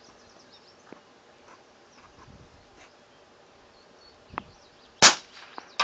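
One shot from a Savage Mark II F bolt-action .22 rifle firing a CCI subsonic low-noise .22 Long round, a single sharp report about five seconds in after a small click. Under a second later comes a ping, the bullet striking the jug downrange. Faint insect chirping runs beneath.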